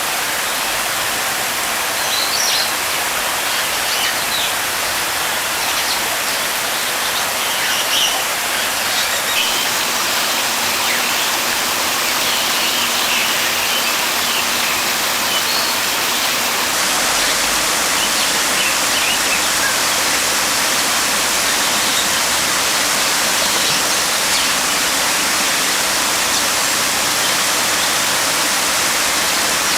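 Steady rushing noise like falling water, with faint, scattered chirps of small birds in the first half.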